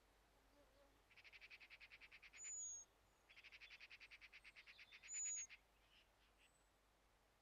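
Faint wild birdsong: two rapid high trills of evenly spaced notes, about a second and two seconds long, each followed by a short, thin, high whistled note that is the loudest sound.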